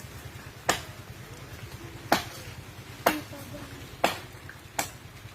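Five sharp chopping blows, about one a second, of a blade cutting into the wood of a fallen tree, over a steady low rumble.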